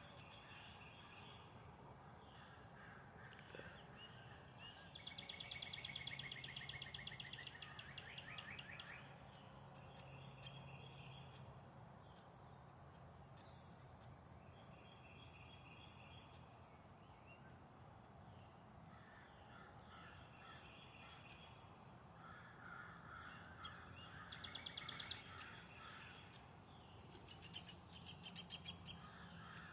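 Faint calls of birds at backyard feeders, including the high-pitched squeaking of a downy woodpecker. A longer run of rapid repeated calls comes about five seconds in, with more calls later on.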